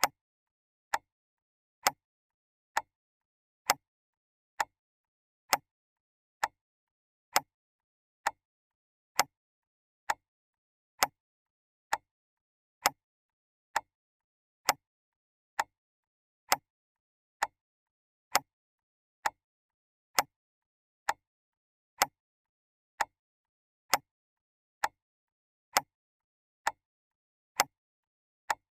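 Clock ticking: single sharp ticks evenly spaced a little under a second apart, with silence in between.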